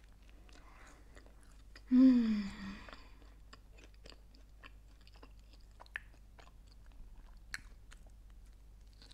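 Close-miked chewing of a grilled sandwich: soft wet mouth clicks and small crunches, with a couple of sharper clicks near the end. A brief falling hum from the eater comes about two seconds in.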